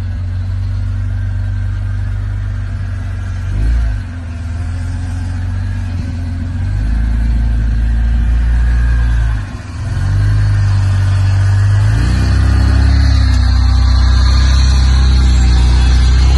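Toyota Land Cruiser 80 series engine working under load as it crawls through deep ruts, the revs rising and falling with the throttle: a short rev about four seconds in, a brief dip near ten seconds, then revs climbing from about twelve seconds in, loudest near the end.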